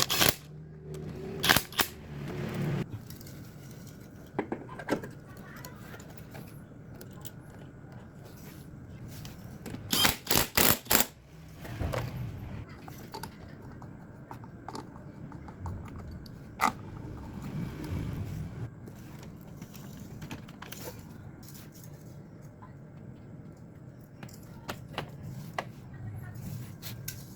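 Metal tools and engine parts clinking, rattling and scraping, with a cluster of rattles about ten seconds in, over a low steady background hum.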